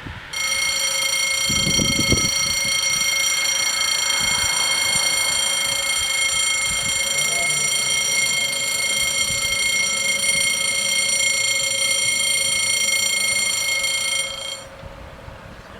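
Level-crossing warning bells sounding a steady, high electronic ringing tone that starts suddenly and cuts off about fourteen seconds later, warning of an approaching train.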